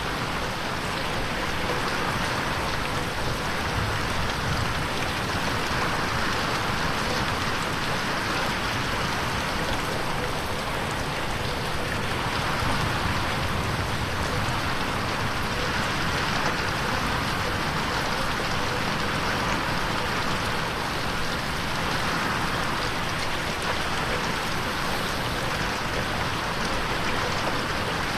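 Steady rain falling on a window pane, an even patter with no thunder, processed with an 8D effect that swells it slowly around the listener's head.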